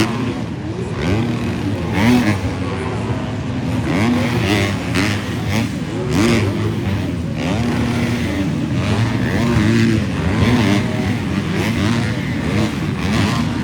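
Several 250cc motocross bikes racing around the track, their engines revving up and falling away again and again as riders shift and take the jumps and turns.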